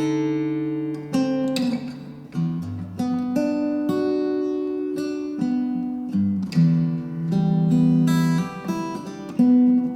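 Background music on acoustic guitar, with plucked and strummed notes that ring out and fade.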